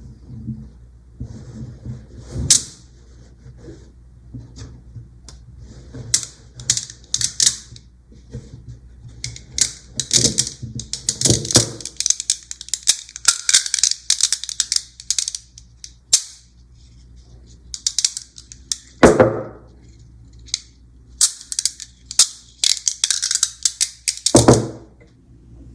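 Small magnet balls clicking and snapping against each other in irregular runs of sharp, high ticks, with two heavier clacks near the end.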